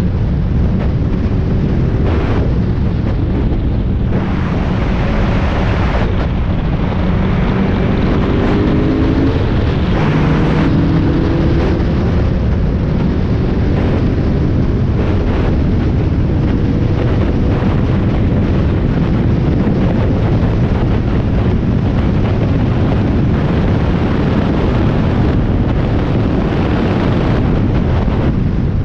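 Spec Miata race car's four-cylinder engine running hard on track, heard from the in-car camera under heavy wind buffeting; the engine pitch climbs in a few rising steps as it revs up through the gears roughly five to twelve seconds in.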